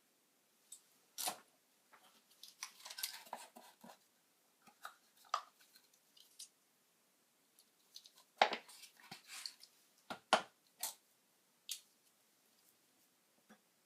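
Scattered clicks, taps and short rustles of small objects being handled, coming irregularly with pauses between them.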